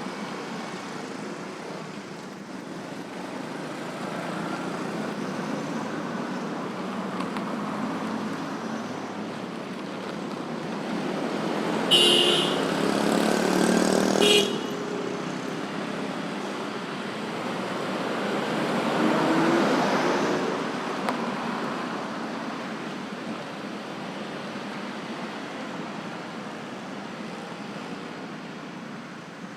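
Steady road traffic of motorbikes and cars passing. About halfway through, a vehicle horn sounds for about two and a half seconds, and a little later another vehicle passes close by, louder.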